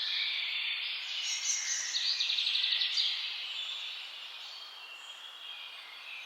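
Several birds calling and singing over one another. A fast trill of evenly repeated notes, lasting about a second, comes about two seconds in.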